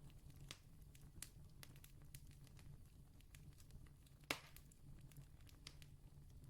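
Distant campfire crackling quietly, with scattered sharp pops of burning wood and one louder snap about four seconds in, over a low steady rumble.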